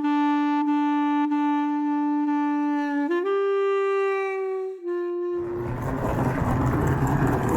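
A reed wind instrument plays one long steady note, then two shorter, higher notes, over a silent background. After about five seconds the sound gives way to steady traffic noise.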